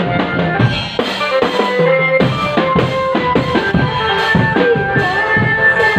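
Drum band music: bass drum, snare and other drums beating a quick, even rhythm, with a melody line over it.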